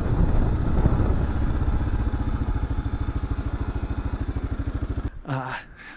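Kawasaki KLR 650's single-cylinder engine running at low speed with an even, steady pulse, then cut off abruptly about five seconds in.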